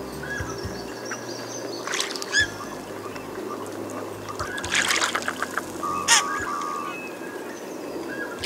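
Birds calling in short clusters, one about two seconds in and a busier one around five to six seconds in, ending in a buzzy held call.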